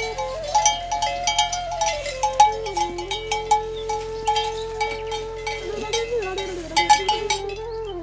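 A flute playing a slow melody of long held notes that step up and down, with many quick bell clinks ringing over it.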